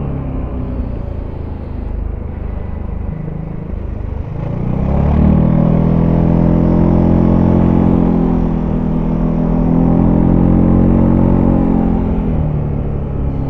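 Zontes E350 maxi-scooter's single-cylinder engine through its stock exhaust, recorded on board while riding. The engine note drops off at first, then rises again about five seconds in, holds, and eases off near the end.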